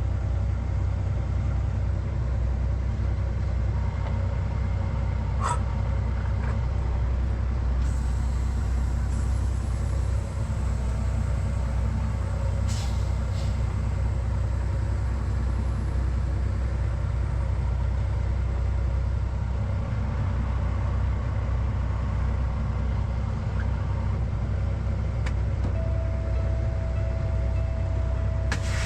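Peterbilt semi truck's diesel engine idling steadily, a low rumble heard from inside the cab, with a few light clicks and a steady higher tone that comes in near the end.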